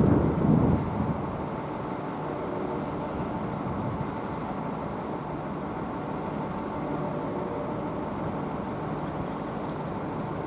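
A train running past with a steady rolling noise, and a gust of wind on the microphone in the first second.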